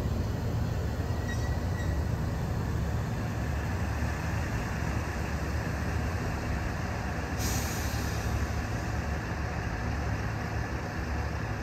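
Electric commuter trains running through a station: one pulls away while another approaches on the next track, a steady low rumble of motors and wheels on rail. A short burst of air hiss comes about seven seconds in.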